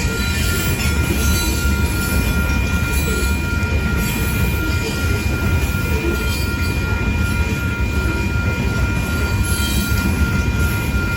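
Coal train's freight cars rolling past: a steady, loud rumble of steel wheels on rail, with thin steady squealing tones above it.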